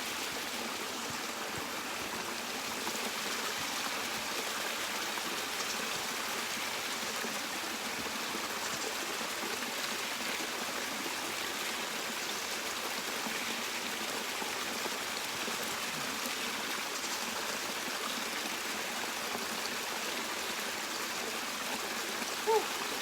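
Running creek water, a steady even rush that goes on without change. A brief short sound cuts in near the end.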